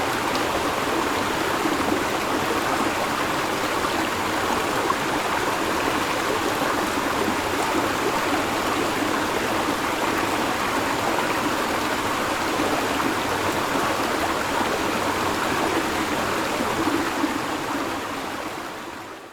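River water flowing over rocks: a steady rushing babble that fades out over the last couple of seconds.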